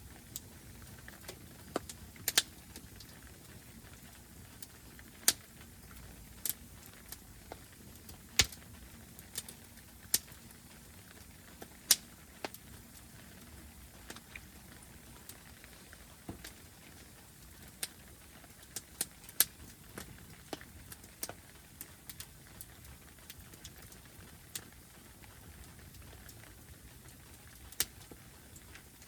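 Wood fire burning, with sharp pops and cracks at irregular intervals over a low steady hiss.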